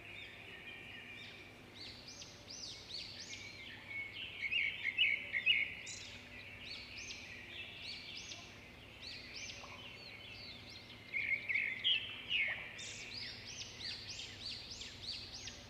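A group of small birds chirping and chattering, many short calls overlapping, with louder bursts of chatter about a third of the way in and again near the end.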